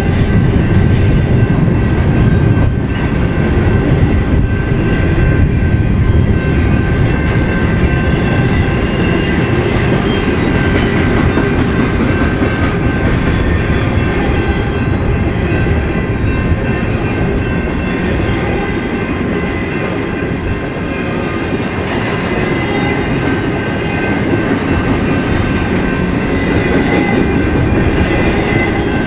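Intermodal freight train rolling past, its cars clattering steadily over the rails with a continuous clickety-clack of wheels on rail joints.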